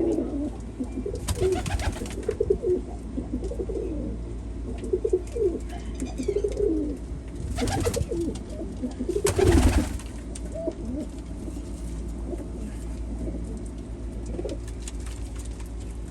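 Domestic pigeons cooing, many overlapping low coos for the first ten seconds or so, then sparser. Several brief rushing noises cut in, the loudest about nine and a half seconds in.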